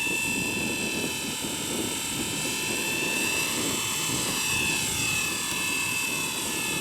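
Blade 230 S V2 collective-pitch RC helicopter in flight: the electric motor's whine and the rotor blades' whir, steady in loudness, with the pitch drifting gently down and back up.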